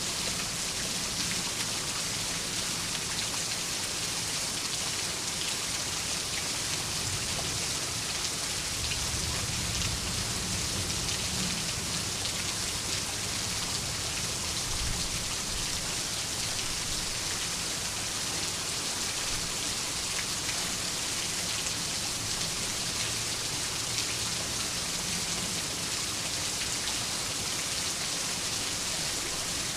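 Steady heavy rain falling, an even dense patter and hiss. In the middle a low rumble swells and fades, distant thunder.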